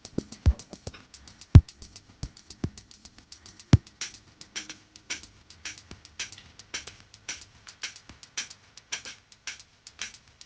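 A quick, even series of sharp clicks, about three or four a second, with a few heavy dull thumps among them in the first four seconds.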